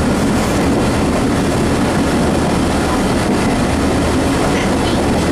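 Open-air passenger coach of a diesel-hauled tourist train running: a loud, steady rumble of wheels on the rails.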